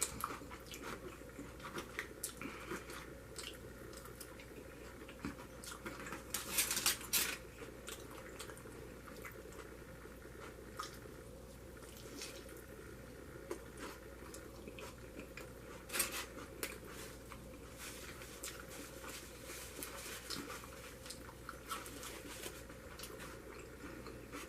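Close-up chewing and mouth sounds of a person eating, scattered soft clicks and smacks, with a couple of louder, sharper noises about seven and sixteen seconds in.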